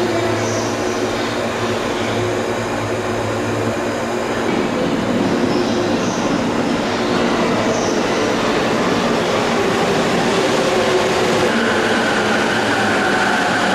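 Container freight train hauled by an EF210 electric locomotive, running noise heard up close: steady rumble with a hum that spreads and grows louder about four and a half seconds in, and a steady whine joining about two-thirds of the way through.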